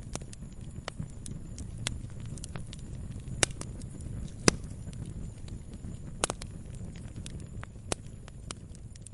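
Wood fire burning in a fireplace: a low, steady rumble of flames with irregular sharp crackles and pops from the logs, a few of them much louder than the rest.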